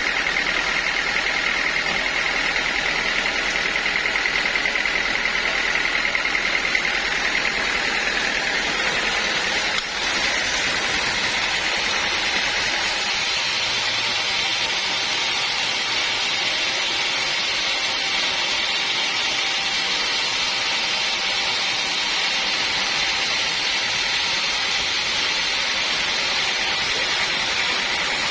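Sawmill band saw running and cutting through teak, a steady loud whine and hiss.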